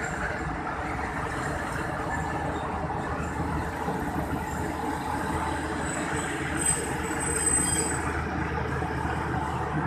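Passenger train rolling along the track as it arrives at a station, a steady rumble of coaches and wheels. A thin, high squeal sounds from about six to eight seconds in.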